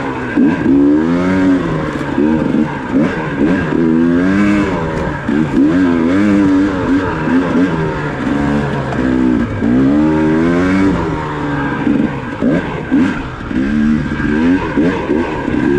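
Dirt bike engine under riding throttle, revving up and dropping back again and again, its pitch rising and falling every second or so.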